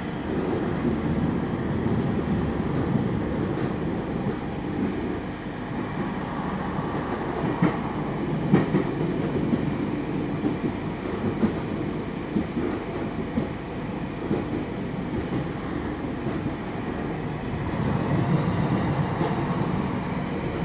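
Tram rolling along, heard from on board: a steady rumble of wheels on rail, with scattered sharp knocks from the track, the loudest about eight and a half seconds in.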